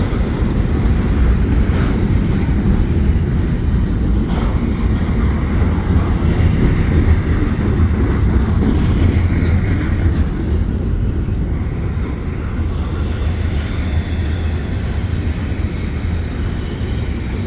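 CPKC double-stack freight train rolling past: a steady low rumble of the cars running on the rails, easing a little after about ten seconds.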